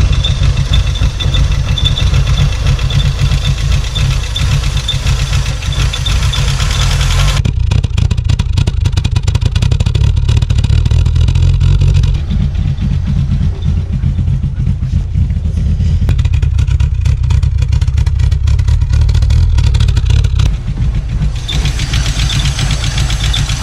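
1986 Volkswagen Golf Mk2's 1.8-litre GX four-cylinder petrol engine idling roughly with a rattly, uneven run: a misfire-like fault the owner suspected came from mixed-up plug leads, which swapping them back has not cured. The sound changes abruptly a few times, heard by turns from the engine bay and at the exhaust tailpipe.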